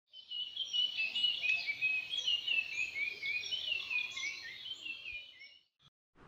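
Many small birds chirping and whistling at once, a dense chorus of short high calls that fades out near the end.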